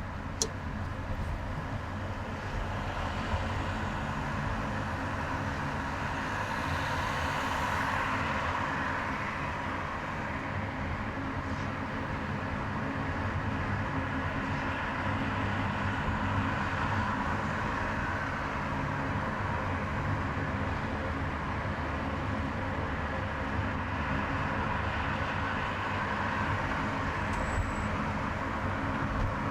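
Car driving along a highway: steady engine hum under a constant rush of tyre and road noise, with passing traffic.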